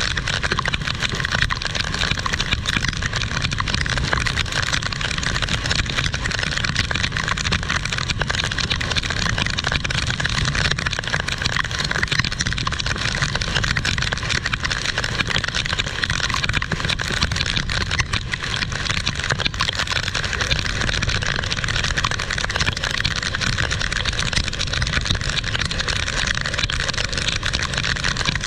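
Heavy rain falling: a steady, unbroken rush of noise.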